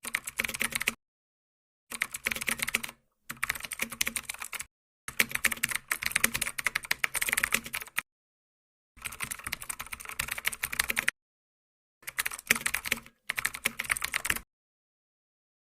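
Rapid typing on a computer keyboard in seven quick runs of clicking, each under a second to about three seconds long, with complete silence between them.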